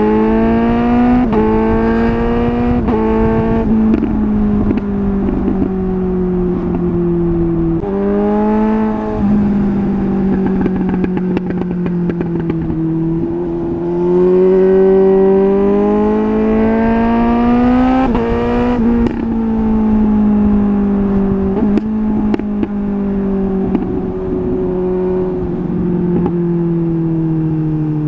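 Suzuki GSR 750 inline-four on the move through a MIVV Double Gun exhaust. It pulls hard with the engine note climbing, cut by short breaks for quickshifter upshifts, then rolls off with the pitch falling and crackles on the overrun. This repeats several times.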